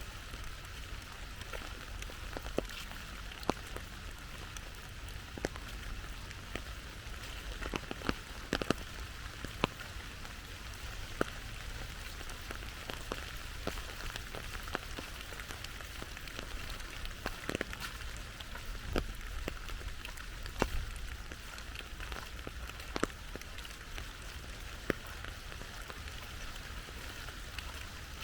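Steady rain falling, a hiss with many separate sharp drop ticks landing close by at irregular moments, over a low rumble.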